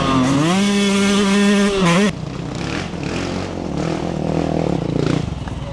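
Yamaha YZ125X two-stroke dirt bike engine revving: its pitch rises, holds high for about two seconds, then drops away abruptly as the throttle shuts. After that the engine runs on lower and rougher.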